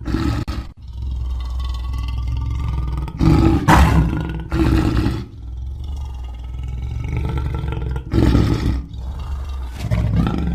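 Lion roaring: a run of deep roars over a steady low rumble, loudest about three to five seconds in and again about eight seconds in.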